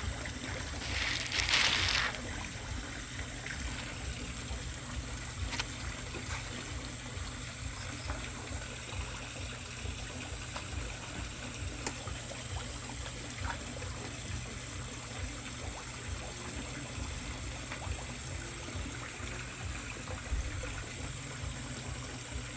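Water trickling steadily in a koi pond, over a low steady rumble, with a louder rush of water about a second in.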